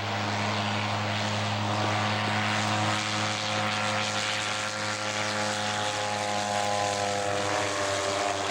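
Rotary engine of a WWI-era Nieuport 11 biplane running steadily in flight, a droning note whose pitch falls slightly about six seconds in.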